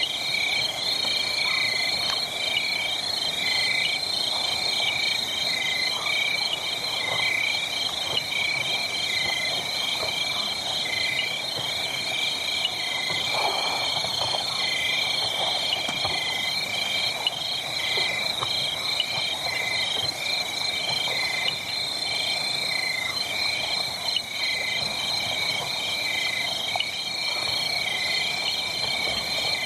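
A night chorus of frogs and insects: steady high trilling with a regular repeating pulse. Scattered crackles from a wood fire sound under it.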